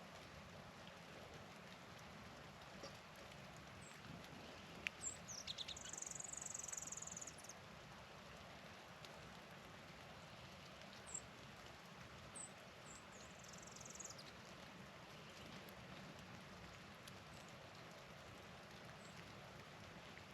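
Small songbirds giving high, thin call notes, including a short high buzzy trill about five seconds in and a few more high notes a little later, over a faint steady outdoor hiss of falling precipitation.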